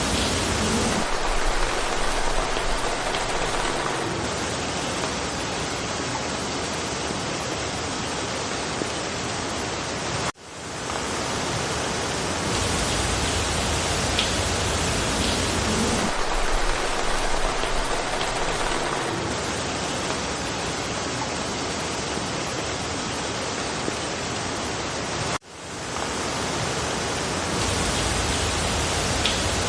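Steady hiss of rain falling through a forest, an even wash of water noise. It is a looped recording: the same stretch repeats, and the sound drops out briefly and swells back twice, at the loop seams.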